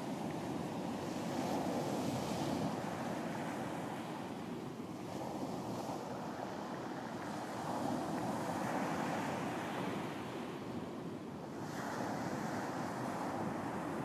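Surf on a beach: waves breaking and washing in, swelling louder every few seconds over a steady rush of water.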